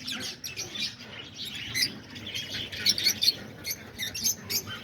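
A flock of lovebirds chirping, with many short high calls overlapping in quick succession.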